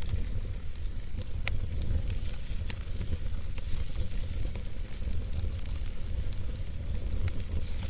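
Wood fire burning in a fireplace: a steady low rumble and hiss, with scattered sharp crackles and pops at irregular moments.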